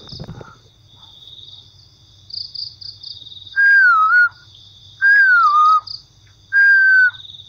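Crickets and other night insects chirping steadily, broken in the second half by three loud whistle-like notes, each under a second long and sliding down in pitch, about a second and a half apart.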